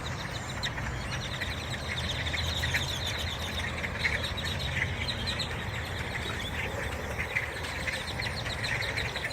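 A large flock of great-tailed grackles calling, a dense, continuous chatter of short, squeaky calls that sound like a computer glitch, over a low steady hum.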